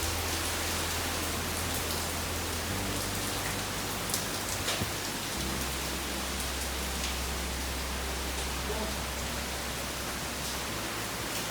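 Steady rain from Hurricane Ian falling and pattering on surfaces, with a low steady rumble underneath.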